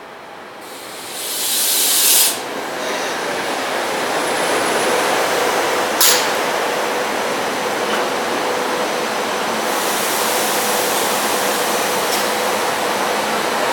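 SEPTA Silverliner IV electric commuter train pulling into the station and rolling past close by, a steady rush of wheels and cars with a faint steady hum. A loud hiss comes just before the train reaches the platform, and there is a single sharp click about six seconds in.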